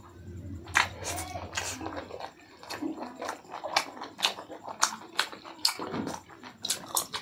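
Close-up wet chewing and lip-smacking of a person eating pork curry and rice by hand, with sharp irregular smacks about twice a second.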